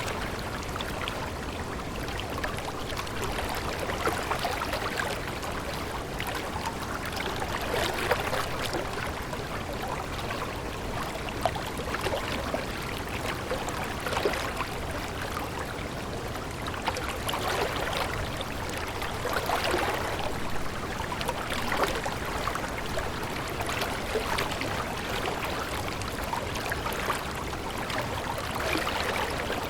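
Stream water running steadily, with constant small splashes and trickles.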